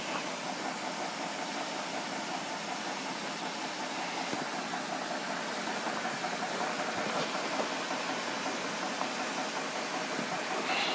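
A 1932 Chevrolet five-window coupe's inline-six engine idling steadily.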